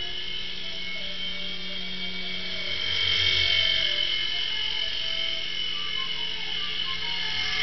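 Small electric RC helicopter flying, its motor and rotors making a steady high whine that grows louder about three seconds in.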